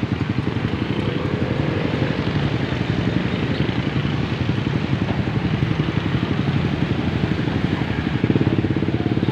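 Large truck's diesel engine running with a rapid, even chug; it grows louder about eight seconds in.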